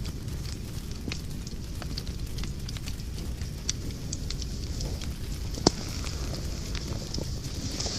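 Wood fire burning in a fireplace: a steady low rumble of flames with scattered sharp crackles and one loud pop a little before six seconds in, and a brief hiss near the end.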